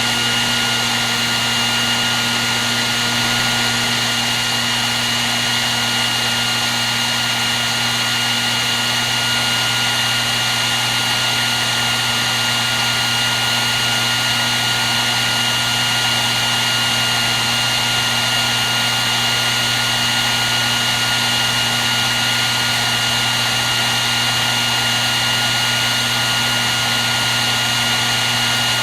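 Hair dryer running continuously: an even rush of blown air with a steady high whine and low motor hum, unchanging throughout.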